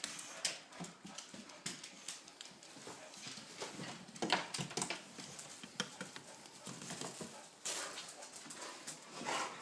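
Dogs, among them a Boxer, moving about, with scattered irregular clicks and taps of their paws on the floor.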